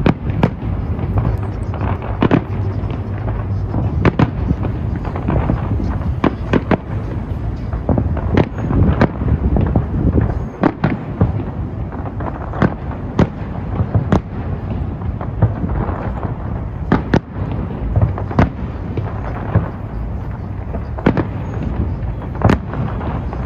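Fireworks display going off: many sharp bangs and crackles at irregular intervals, sometimes several in quick succession, over a continuous low rumble of further explosions.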